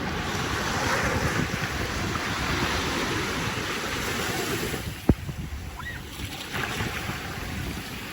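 Surf washing on the beach with wind buffeting the microphone, and a single sharp click about five seconds in, after which the wind noise eases.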